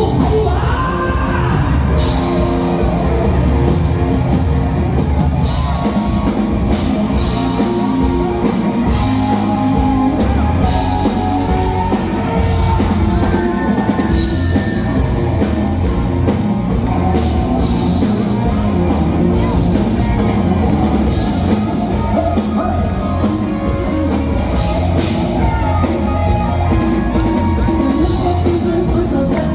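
Live band music in the luk thung / mor lam style, with a steady drum-kit beat.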